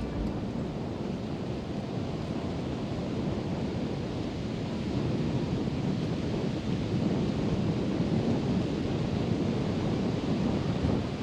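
Steady rush of flowing or falling water, an even noise with no breaks.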